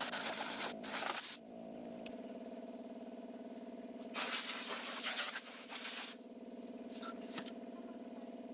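Power sander running with a steady hum, with harsh rasping bursts of sandpaper working the tongue-and-groove boards in the first second or so and again about four to six seconds in.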